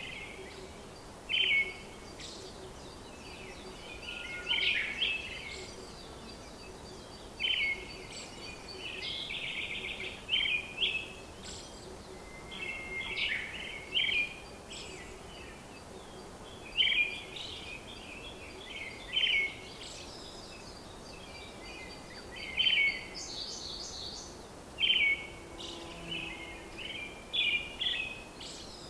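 Birds chirping and singing in short repeated phrases every second or two, over a steady faint background hiss.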